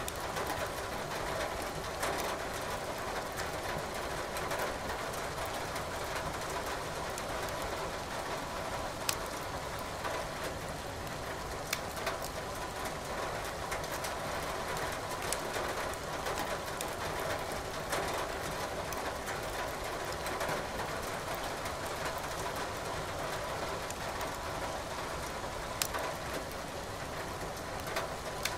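Steady hiss of rain with a wood fire crackling in a fireplace, its sharp pops scattered every few seconds.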